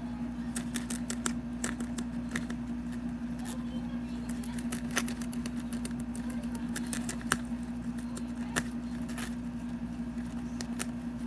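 Guinea pig chewing a fresh banana leaf: quick, irregular crisp clicks of bites and tearing leaf, over a steady low hum.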